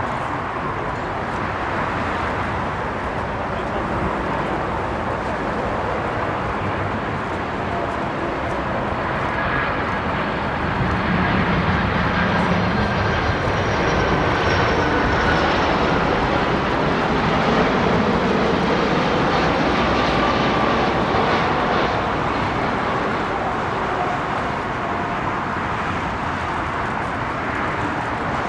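McDonnell Douglas MD-11F jet freighter with General Electric CF6 turbofans passing by. Its engine noise swells to its loudest through the middle, and thin whining tones slide down in pitch as it goes past.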